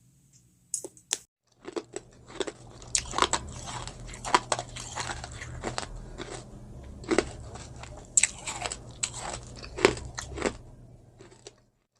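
Close-miked eating: crisp, crunchy bites and chewing, many sharp crunches in a row, with a low steady hum underneath.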